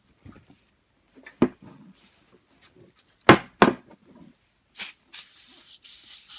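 A can being handled with a few knocks, then an aerosol can of oven and grill cleaner spraying in short hissing bursts from about five seconds in.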